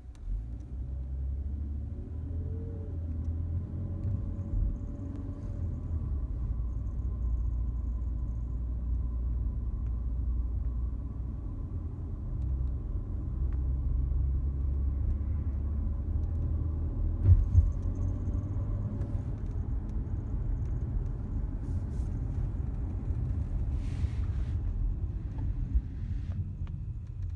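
Low, steady driving rumble inside a Volvo S60 under acceleration, with faint steady higher tones over it and a couple of brief knocks about two-thirds of the way through. The owner hears an odd chain-like noise on acceleration and likens it to a timing chain.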